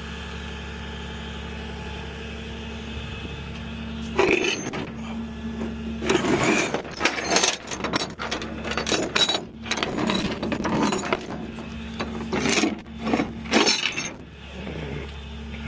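Vehicle engine idling with a steady low hum. From about four seconds in, it is broken by a run of irregular loud, rustling noise bursts that ease off shortly before the end.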